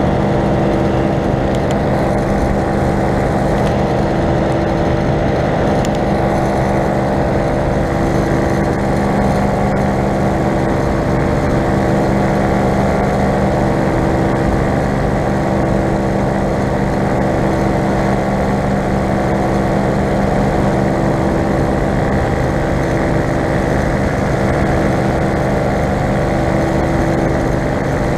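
Falcon four-stroke paramotor engine running steadily in flight, its pitch holding nearly constant.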